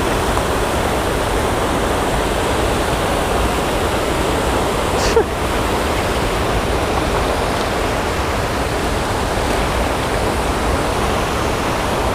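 Water pouring steadily over a low dam spillway into the creek below, a continuous rushing waterfall sound. One brief sharp click about five seconds in.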